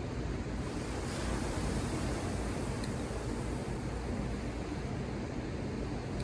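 Ocean surf: a wave breaks about half a second in, and its hiss swells and fades over the next few seconds, over a steady low rumble of the sea.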